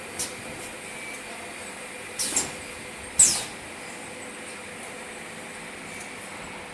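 Automatic oil-filling line running with a steady mechanical hum. Short, sharp hisses of compressed air from its pneumatic valves and cylinders come once just after the start, twice about two seconds in, and loudest about three seconds in.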